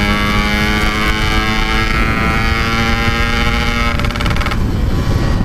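Yamaha RX-King single-cylinder two-stroke engine running at a steady pitch, its tone cutting out about four seconds in, over road and wind noise; the tank has run out of petrol.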